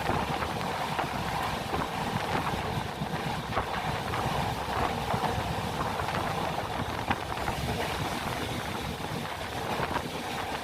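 Vaigai Superfast Express passenger train running at speed, heard on board: a steady rumble of the coach on the track under an even rushing noise.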